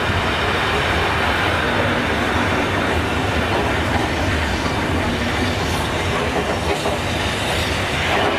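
A rake of BR Mark 1 passenger coaches running past close by, their wheels making a steady loud rumble and clatter on the rails.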